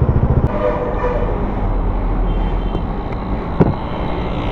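Motorcycle engine idling with an even low pulse, then cut off about half a second in. A steady low traffic rumble follows, with one sharp knock a little past the middle.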